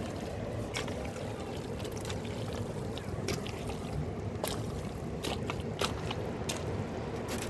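Fast-flowing mountain river rushing steadily, with scattered sharp clicks and knocks over it.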